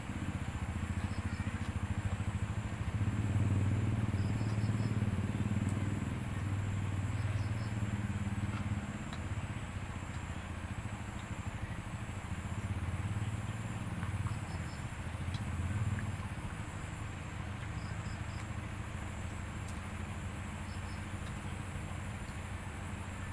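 Low engine rumble, like motor traffic, swelling and fading a couple of times and easing off near the end.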